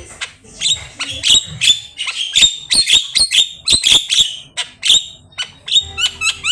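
Javan myna singing a fast run of short, sharp chattering notes, several a second, with a few brief whistled glides near the end.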